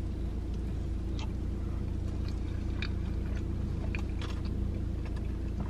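Someone biting into and chewing a soft burrito: faint, scattered wet mouth clicks over a steady low hum.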